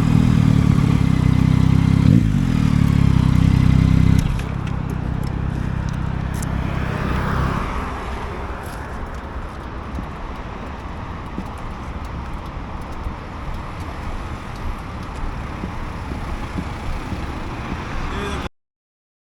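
Yamaha MT-09's three-cylinder engine running at steady revs. About four seconds in it drops much quieter and fades into a steady road and traffic noise with light clicks, which cuts off abruptly near the end.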